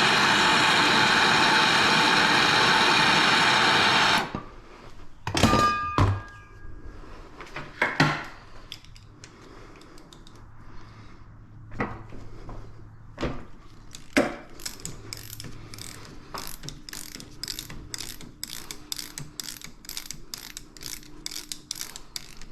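A loud, steady machine noise cuts off about four seconds in. A few tool knocks follow, then a hand ratchet wrench clicks in quick repeated strokes.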